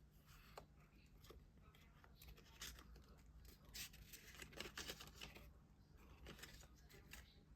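Faint rustling and crinkling of packaging being handled and opened, with scattered small clicks; the crinkling is busiest in the middle.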